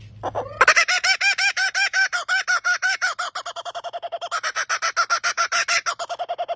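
A bird calling a fast, unbroken series of short, pitched notes, about seven a second, that sounds like a person laughing. The series starts about half a second in with a rising note.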